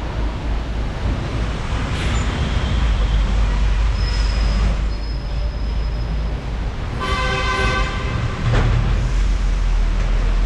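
Motorcycle riding in the rain: a steady engine rumble with wind and road noise. A vehicle horn sounds once, briefly, about seven seconds in.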